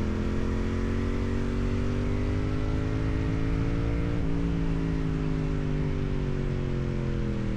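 Yamaha MT-07's parallel-twin engine through its stock exhaust under way: the engine note climbs steadily for about four seconds, then eases off and falls slowly as the bike slows.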